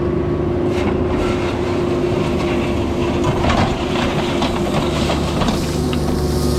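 Mini excavator's diesel engine running steadily, with a run of clattering knocks about three to four and a half seconds in.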